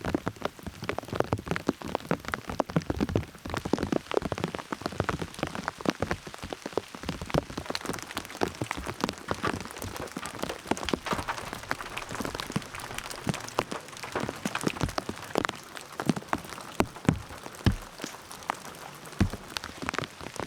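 Rain falling, with many large drops striking a hard surface close by in dense, irregular taps over a steady hiss.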